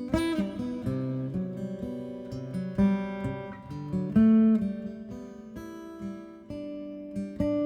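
Acoustic guitar music, plucked notes and strummed chords.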